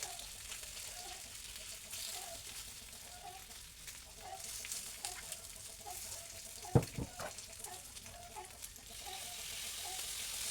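Food sizzling in hot frying oil, a steady crackling hiss, with one sharp knock of a utensil about two-thirds of the way through.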